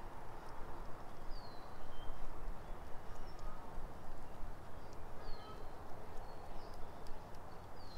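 Small birds chirping: a few short, high, falling notes spaced a few seconds apart, over a steady rushing background with faint irregular clicks.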